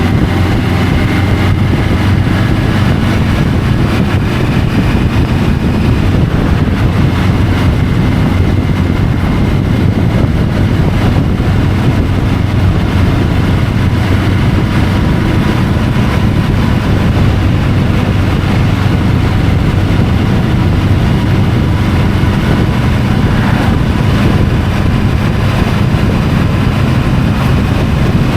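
Triumph Tiger 850 Sport's inline three-cylinder engine running at a steady, even pitch while the motorcycle cruises, heard through a camera mounted on the bike, with wind and road noise over it.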